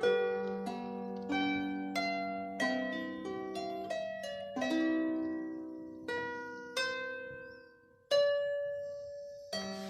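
Diatonic Celtic harp with 26 strings, played as a slow melody of single plucked notes ringing over a low note. About eight seconds in the sound dies almost away, one plucked note rings on its own, and playing resumes near the end.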